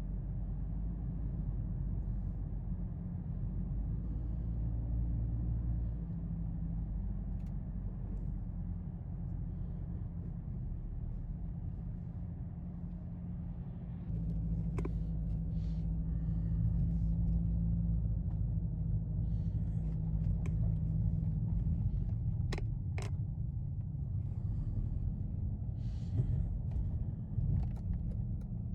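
Ferrari F40 LM's twin-turbo V8 running with a steady low rumble as the car is driven. It gets louder about halfway through, and a few sharp clicks come in the second half.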